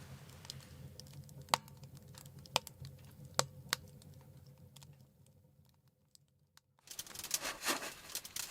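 A few sharp isolated clicks over a faint low hum, then a brief near-silent gap, then a quicker run of faint crackling and rustling.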